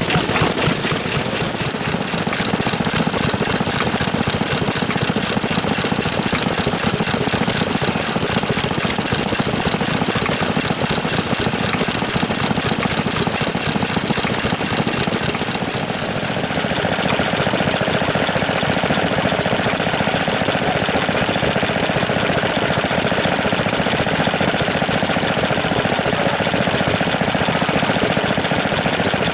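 Vintage stationary engines running with a fast, even chugging rhythm. The sound changes character about halfway through.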